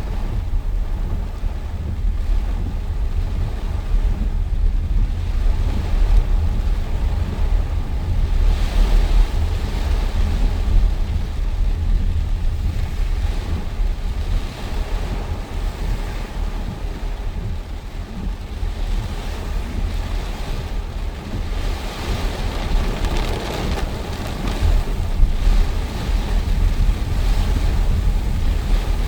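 Storm wind buffeting the microphone: a constant deep rumble with a rushing hiss that swells and fades several times.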